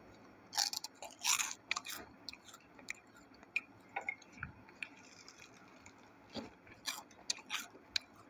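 A person biting into and chewing a crispy Slanty-style snack stick: a few sharp crunches in the first two seconds, then softer, scattered chewing crunches.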